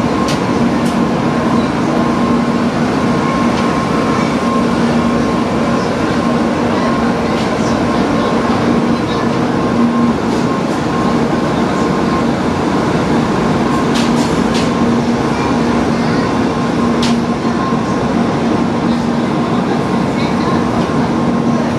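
Steady, loud hum and rush of a stationary Shinkansen train's onboard equipment running, with a low held tone and a fainter higher one, and a few sharp clicks.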